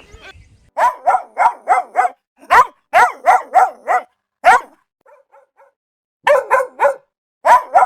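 A dog barking in quick runs of short barks, about three to four a second, with a short pause and a few faint ones near the middle.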